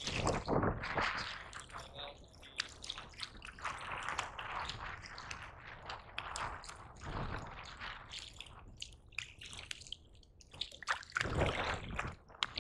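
Seawater lapping and splashing against a kayak's hull, with irregular drips and small knocks. There are louder splashes just after the start and about 11 seconds in.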